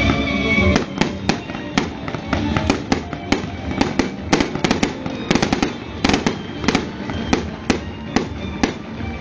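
Fireworks bursting in a rapid, irregular string of sharp bangs, several a second, starting about a second in, with music playing underneath.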